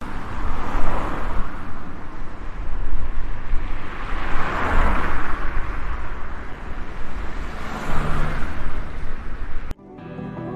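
Road traffic on a flyover: vehicles rushing past one after another, swelling loud three times, over a constant low rumble. It cuts off suddenly near the end, and gentle music takes over.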